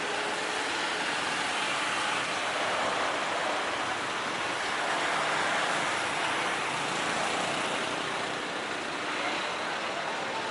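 Jet airliner's engines just after touchdown: a steady rushing roar that swells slightly in the middle and eases a little toward the end.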